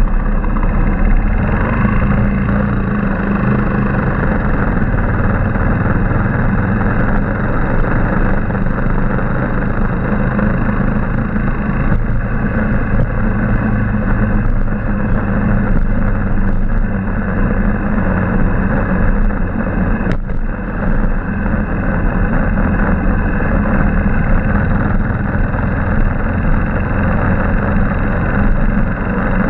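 Motorcycle engine running steadily while riding, with a dense rushing noise over its low hum. There is a brief click and a short dip in level about two-thirds of the way through.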